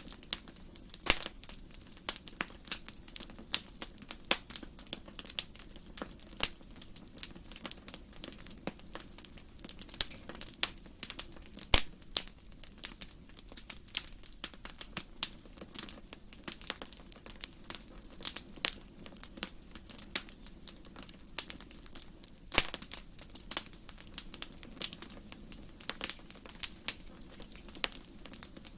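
Wood fire burning in a fireplace, crackling with dense, irregular snaps and pops over a steady low background. A few sharper, louder pops stand out, about a second in, near the middle and about two-thirds of the way through.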